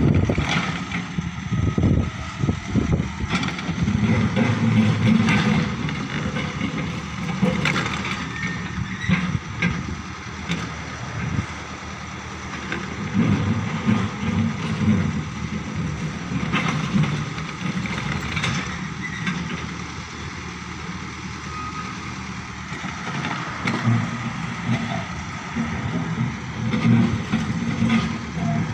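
Diesel engine of a JCB-type backhoe loader running under varying load as it works, its note rising and falling, with occasional sharp knocks.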